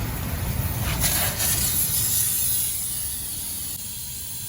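Air hissing out of a motorcycle tyre as it is let down, loudest about one to two seconds in and easing off after.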